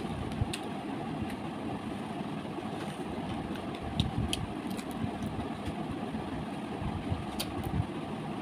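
Close-up eating sounds of someone chewing fried fish picked from the bone by hand, with a few sharp smacks or crunches, over a steady low background rumble.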